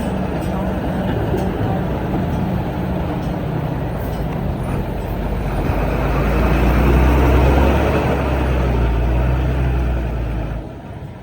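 Heavy diesel engine of earthmoving machinery running. It grows louder, with a heavier low rumble, from about halfway through, then drops off suddenly near the end.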